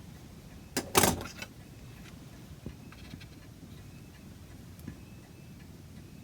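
Two sharp knocks close together about a second in, then a few light clicks: wood and hand tools being handled and set down on a workbench.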